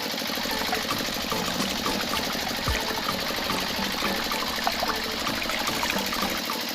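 Small electric motor of a DIY model tractor running steadily, with a fast, even buzzing rattle.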